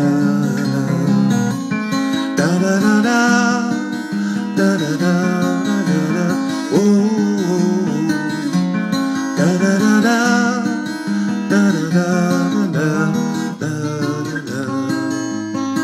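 Acoustic guitar playing a continuous instrumental passage between the song's verses, with some notes bending or wavering in pitch.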